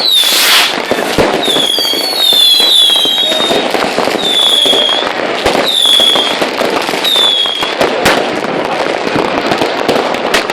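New Year's Eve fireworks going off all around: a dense, continuous crackle of firecrackers and bangs, with a loud burst just after the start. Short, high whistles sound about every second.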